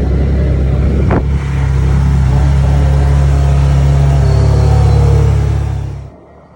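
A car engine running with a loud, deep rumble, cutting off abruptly near the end.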